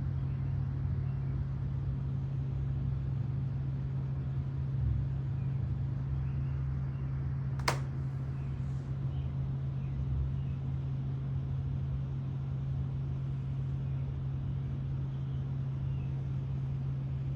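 Steady low mechanical hum, with a single sharp click about halfway through.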